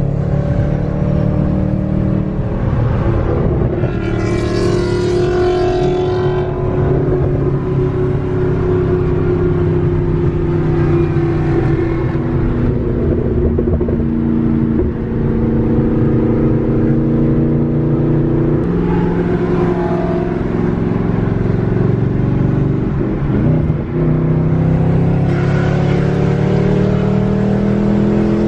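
Ford Mustang's engine and exhaust heard from inside the cabin at highway speed, a steady droning note that drifts slowly in pitch, with tyre and road noise underneath. Near the end the sound briefly dips and the engine note then climbs as the car accelerates.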